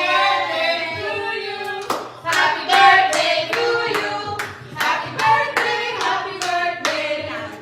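Voices singing a song with hands clapping along in a steady beat, the claps joining about two seconds in at roughly two to three a second.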